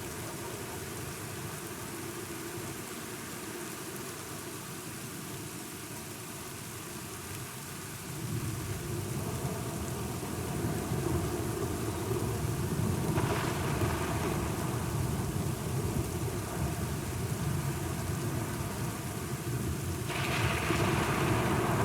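Steady rain with thunder: a low rolling rumble builds about eight seconds in, swelling louder twice, once past the middle and again near the end.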